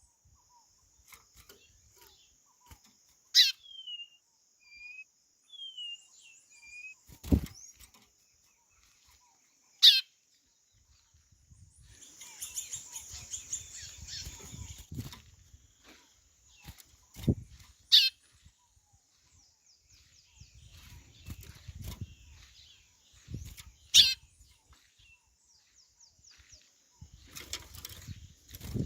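White-bellied seedeater (chorão) calling: four loud, sharp calls that sweep quickly downward in pitch, spaced several seconds apart, with short soft whistled notes in between. Two dull low thumps and a faint steady high hiss sit under the calls.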